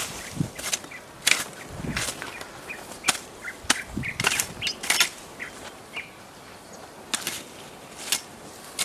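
A rapid, irregular series of sharp snaps and cracks, some with a dull thump beneath them.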